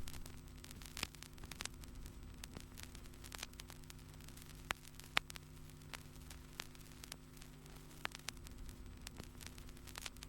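Faint steady low hum with scattered crackling clicks and pops.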